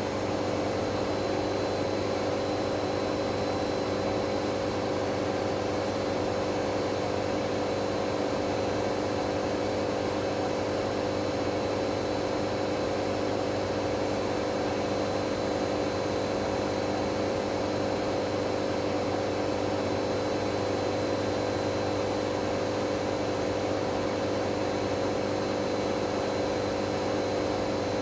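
Hoover Dynamic Next washing machine spinning steadily at high speed on a spin-only cycle: a constant motor whine and drum hum with several steady tones over an even rushing noise.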